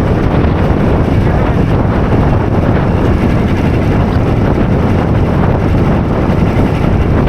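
Blizzard wind buffeting the microphone in a steady, loud rush, with a Snowdog motorized snow machine running under it.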